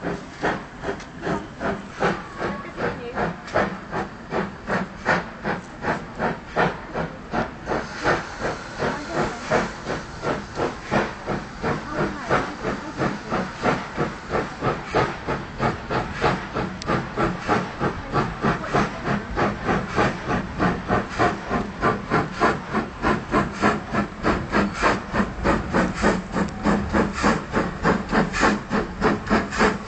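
GWR Prairie tank steam locomotive 4566 pulling away, its exhaust chuffing in a steady rhythm. The beats quicken from about two or three a second to about five a second and grow louder as it picks up speed.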